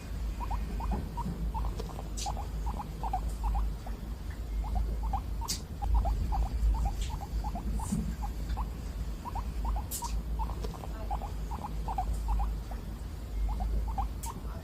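Guinea pig squeaking: short squeaks in quick succession, several a second, with a few sharp clicks over a low rumble.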